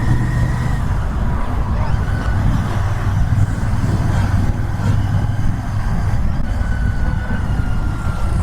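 Royal Enfield Interceptor 650's parallel-twin engine running steadily under way, with road and wind noise, and a faint high tone wavering above it now and then.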